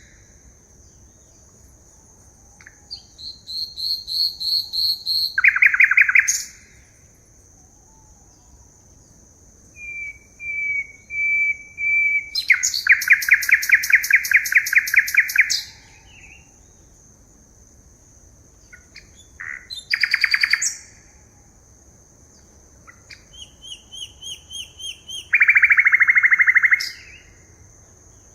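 Forest birds singing: repeated phrases of quick notes that run into a fast, even trill lasting one to three seconds, several times, with pauses between. A thin, steady high-pitched tone sounds behind them throughout.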